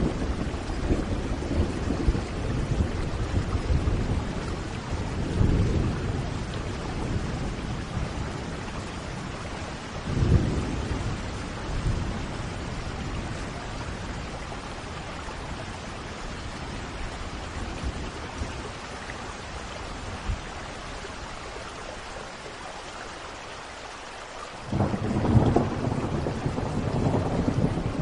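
Thunderstorm: steady rain with rolling thunder. Low rumbles swell a few seconds in and again about a third of the way through, then it quietens before a sudden louder thunder roll near the end.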